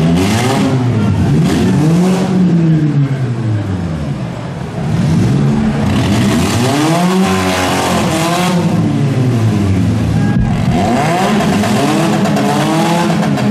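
Engines of several four-cylinder demolition derby cars revving hard, rising and falling over and over as they push against one another. Some revs overlap.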